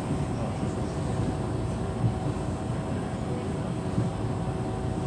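Steady rumble of a passenger train running along the line, heard from inside the carriage, with a faint steady hum over it.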